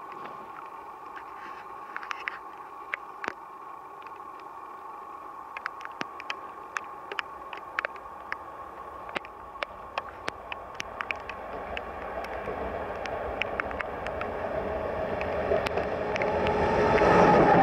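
OSE class 220 diesel locomotive approaching out of a tunnel and passing close by. A steady whine and rumble is dotted with scattered sharp clicks, and it grows steadily louder over the second half, loudest in the last second or so as the locomotive goes past.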